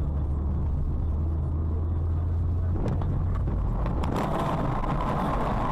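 Road and engine noise of a moving car: a steady low hum that gives way about four seconds in to a brighter rushing noise.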